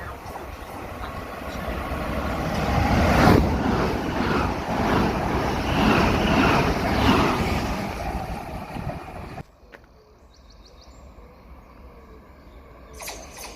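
Electric passenger train passing at speed: a rising rumble with a run of wheel knocks as the bogies cross the rail joints, which cuts off abruptly about nine seconds in.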